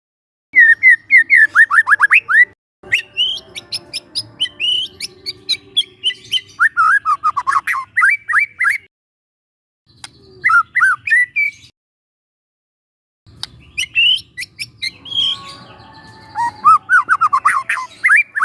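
Young white-rumped shama singing: phrases of rapid, downward-sliding whistled notes, broken by short silent gaps about three seconds in, around ten seconds in and again near twelve seconds.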